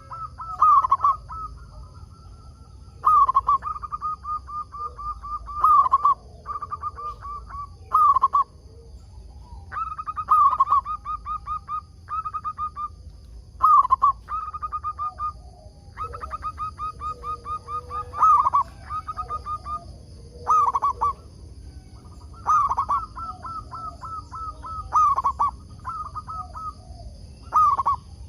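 Zebra dove (perkutut) cooing its song over and over: phrases of quick, evenly spaced short notes broken by louder drawn coos, repeating every few seconds.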